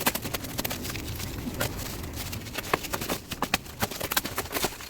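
Footsteps: irregular clicks and knocks over a low rumble.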